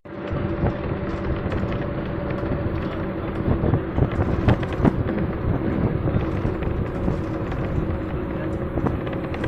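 Bus driving on the road, heard from inside: a steady engine drone over road rumble, with scattered short knocks and rattles.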